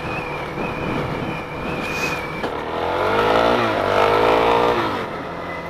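Suzuki DR-Z400's single-cylinder four-stroke engine revving as the bike accelerates, the pitch rising over a couple of seconds and then dropping back, over steady road and wind noise.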